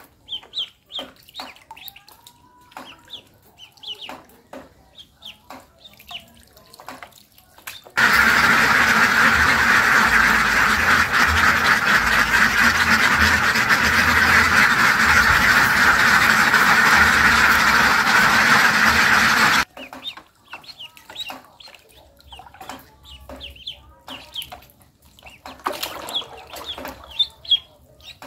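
Poultry calling with many short, separate calls. About eight seconds in, a loud, dense, steady din cuts in abruptly, runs for about twelve seconds and stops just as suddenly, and then the short calls resume.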